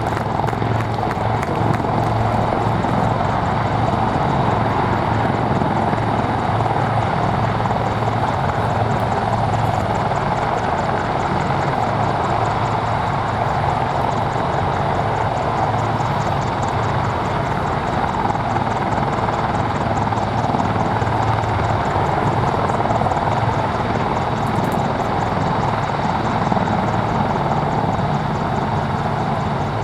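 Military helicopters, AH-64E Apaches and an AW159 Wildcat, flying with a steady, loud drone of rotors and turbine engines.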